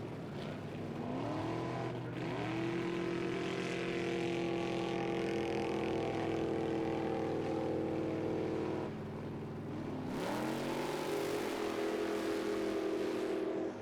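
A 2005 Ford F-250 off-road race truck's 448 stroker V8 revving hard under load. Its pitch climbs about a second in and holds high and steady, drops off around nine seconds, then climbs again a second later and holds.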